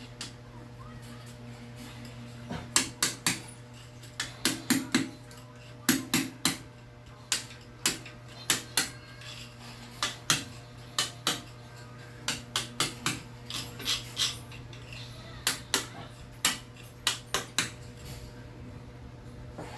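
Irregular sharp clinks and knocks of hard objects striking a hard surface, many coming in quick clusters of two or three, over a steady low hum.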